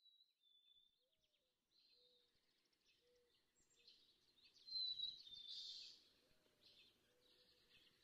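Faint birds chirping and whistling, with a louder spell of chirps about five seconds in.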